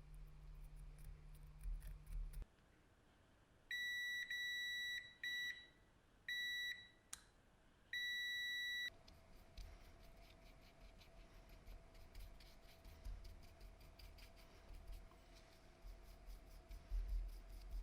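Electronic beeper sounding four times: steady high-pitched beeps of uneven length, the first and last about a second long and the middle two short. A low hum stops just before the beeps begin.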